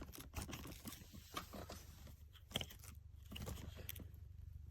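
Faint, scattered clicks and knocks of the plastic parts of a Dirt Devil Endura Reach upright vacuum being handled. The sounds come as a part that won't fit is pushed and twisted into place.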